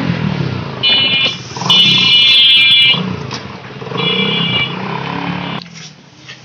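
Suzuki Gixxer motorcycle engine running and revving up and down while its horn beeps three times, the middle beep the longest, on a test ride after its carburettor was cleaned.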